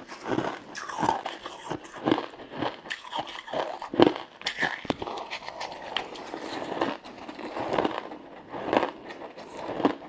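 Frozen matcha ice being bitten and crunched between the teeth: a rapid, irregular run of crisp cracks and crunches, with the loudest crack about four seconds in.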